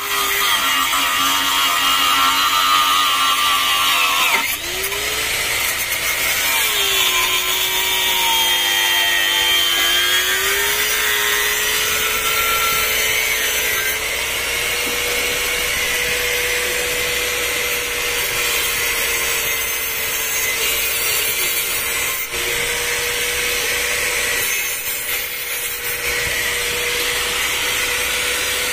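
Twin Yamaha 200 hp two-stroke outboard motors running hard at high revs, their pitch dipping and climbing again a few seconds in, then holding steady, with loud rushing noise over it.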